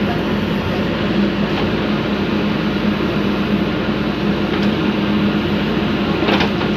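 Diesel engine of a JCB digger running steadily, with a few brief clicks or knocks, the clearest near the end.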